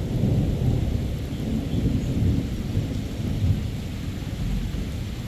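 Thunder rumbling low after a lightning strike, swelling in the first second and easing off toward the end, over the steady hiss of rain.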